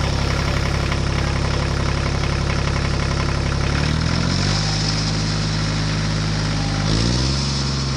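A tractor-type engine running steadily at idle, its pitch shifting twice, about halfway through and again near the end.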